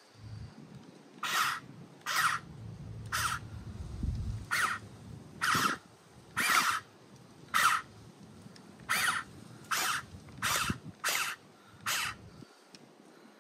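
A bird cawing about a dozen times in short, harsh calls at irregular intervals, with a low rumble under the first few seconds.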